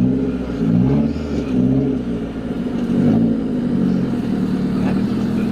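Car engine running while driving, its revs rising and falling over the first few seconds, then holding steadier.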